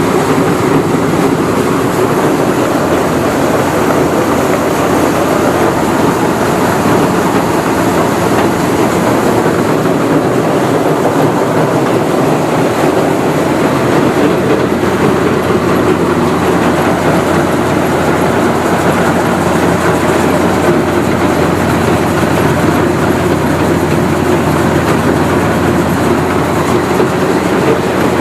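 Rice-milling machinery running with a loud, steady rattling clatter as the rice is hulled and milled; a low hum comes up about halfway through.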